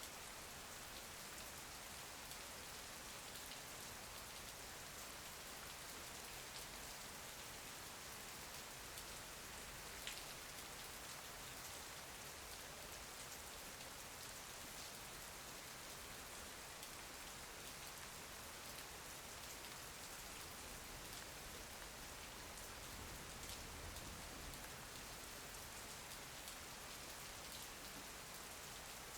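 Steady rain falling, an even hiss with scattered drop ticks and one sharper tick about ten seconds in.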